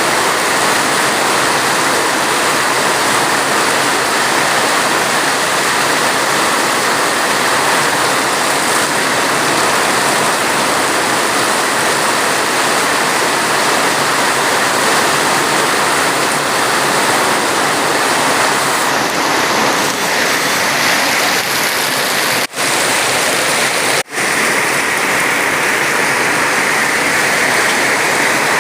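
Steady heavy rain, a dense, even hiss without a break in its pattern. About two-thirds of the way through, it cuts out for an instant twice in quick succession, then carries on.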